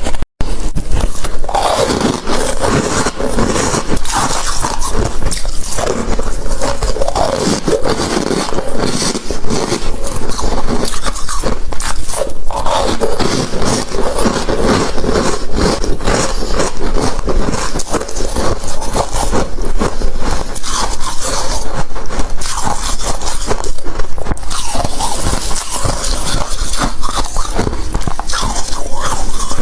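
Ice being crunched and chewed close to the microphone: a dense, unbroken run of sharp cracks and crackles, cut out for a split second near the start.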